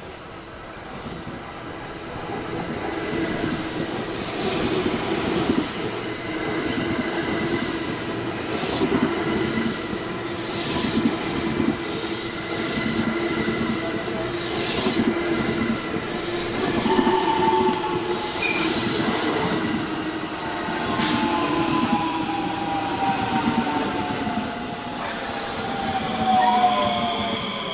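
JR West commuter electric train pulling into the platform: steady wheel rumble with repeated clatter over the rail joints as the cars pass. In the last several seconds a whine falls in pitch as the train slows.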